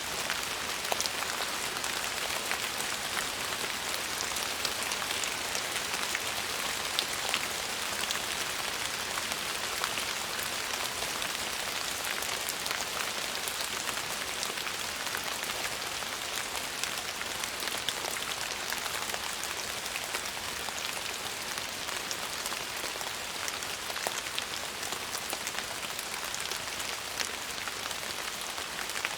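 Steady rain falling, a continuous even hiss made up of many fine drop patters.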